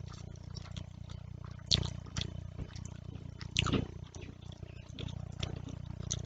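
Close-up eating sounds from a mouthful of fish curry and rice eaten by hand: wet chewing, lip smacks and short clicks, loudest about two seconds in and again about three and a half seconds in, over a steady low hum.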